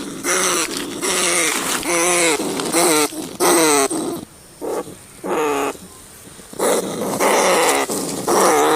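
Rat squealing in a string of short, harsh cries, each sliding down in pitch, with brief pauses about four and six seconds in.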